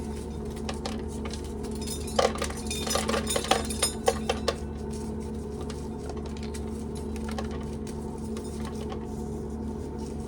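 Dry corn kernels clicking and rattling as corn is shelled, in a flurry of clatter about two to four and a half seconds in and scattered ticks otherwise, over the steady hum of an old electric fan.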